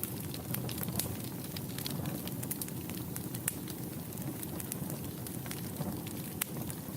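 Wood fire burning in a fireplace, with a steady low rumble of flames and frequent sharp, irregular crackles and pops.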